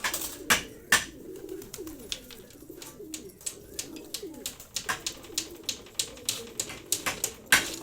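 Pigeons or doves cooing low and wavering, with repeated sharp clicks or taps, several a second, louder than the coos.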